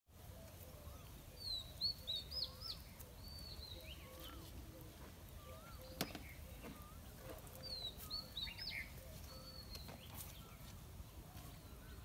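Birds calling: quick high chirping phrases in two bursts, about one and a half seconds in and again around eight seconds, with fainter lower whistled notes between, over a faint steady outdoor hiss. A single sharp click comes about halfway through.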